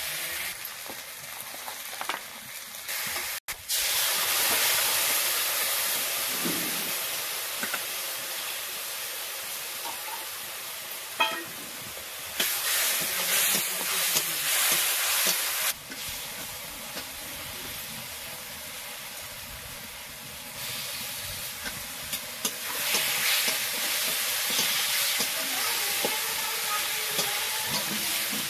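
Oil sizzling in a steel kadai as fish pieces and masala fry, with the scrape of a metal spatula stirring against the pan. The loudness jumps up and down abruptly several times.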